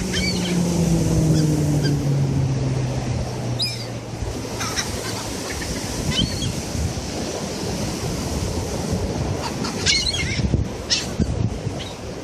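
Gulls giving short cries over the steady noise of surf and wind, with a few calls about four to six seconds in and a cluster of them near the end. A low hum slowly falls in pitch over the first few seconds.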